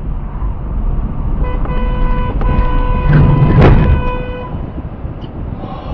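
A car horn blares steadily for about three seconds over loud road and wind noise. Near the middle of the honk comes a sudden loud thump, the loudest sound here.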